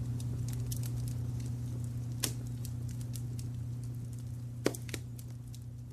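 Wood fire crackling, with scattered small snaps and two louder pops, over a steady low brown-noise rumble; the whole mix slowly fades toward the end.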